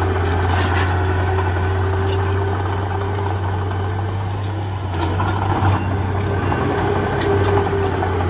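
Heavy diesel engine of earth-moving equipment running steadily with a deep hum and a held tone above it, with light clicks now and then.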